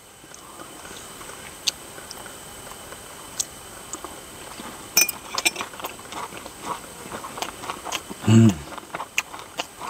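A person eating fried sea bass: scattered short crunches and chewing sounds with light clicks, and one brief low hum about eight seconds in.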